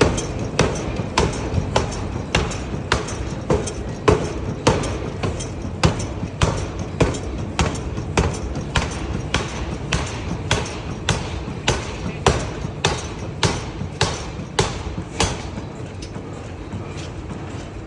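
Forging hammer striking hot steel in a steady rhythm, a little under two blows a second, over a continuous low factory rumble.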